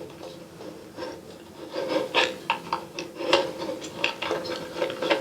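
A red dot finder scope's mounting base being slid and worked along its attaching bar on the telescope, making irregular scraping and small clicks that start about a second in.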